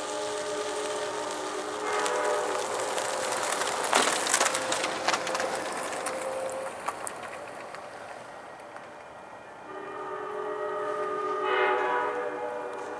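A diesel locomotive's air horn sounds a multi-note chord twice. The first blast is already going and fades out in the first few seconds; the second rises from about ten seconds in and tails off near the end. Between the two blasts comes a burst of sharp clattering from the passing train about four seconds in.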